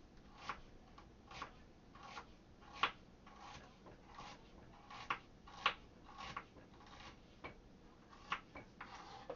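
Kitchen knife slicing a jalapeño pepper thinly on a cutting board: about a dozen short, faint knife clicks against the board, roughly one every 0.7 seconds.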